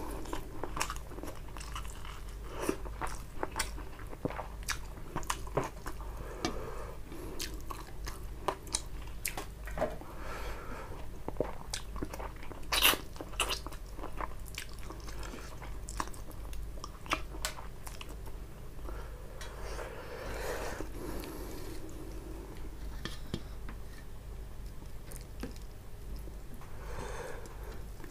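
Close-miked chewing of a mouthful of rice and tilapia fish curry eaten by hand: irregular wet mouth smacks and sharp clicks, one louder click about halfway, over a low steady hum.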